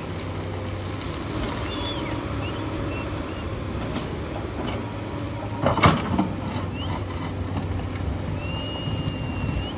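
Hyundai excavator's diesel engine running steadily, with a loud clank about six seconds in and a few brief high squeals, one held for about a second near the end.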